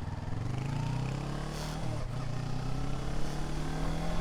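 Motorcycle engine accelerating under way, its pitch climbing, dropping briefly at a gear change about two seconds in, then climbing again in the next gear, with wind rushing past.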